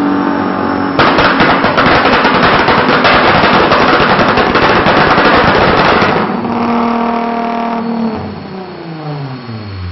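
Supercharged 3.5-litre VQ35DE V6 of a Nissan 350Z on a chassis dyno, under full throttle at the top of a power run. About a second in it breaks into a loud, harsh, rapid crackle for about five seconds. It then settles to a steady note, and near the end the revs fall away as the throttle is closed and the rollers coast down.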